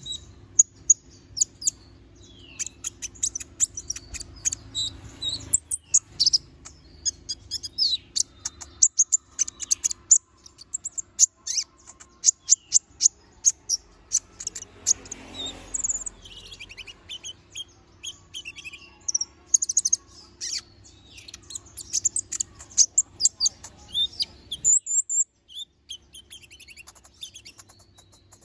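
Konin (kolibri ninja) bird singing a fast, busy song of sharp, high-pitched chirps and trills. A faint low hum underneath stops near the end.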